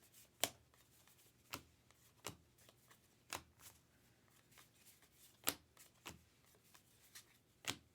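Baseball trading cards being flipped through a stack one at a time: a series of short, crisp card snaps at an uneven pace, about a dozen in all.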